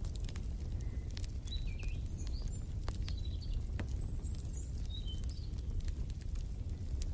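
Wood fire crackling, with scattered sharp pops over a low steady rumble. A small bird chirps a run of short high notes in the middle.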